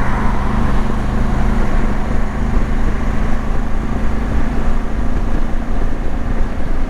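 Motorcycle engine running steadily at cruising speed, with a steady rush of wind noise on the camera microphone.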